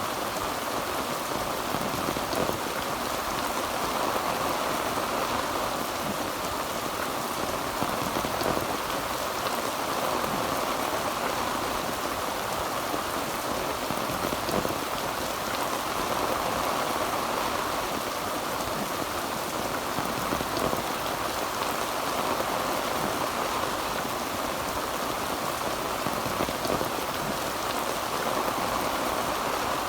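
Heavy rain falling on a tin roof, a steady, even downpour of drops with no let-up.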